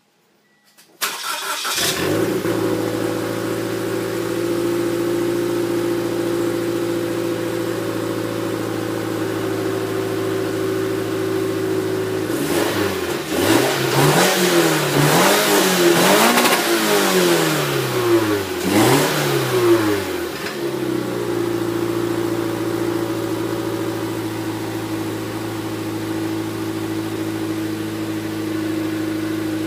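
Scion FR-S's flat-four engine starting about a second in and idling through a Dynomax VT exhaust with the resonator still fitted. Midway it is revved in a series of quick blips, each pitch rising and falling, then settles back to a steady idle.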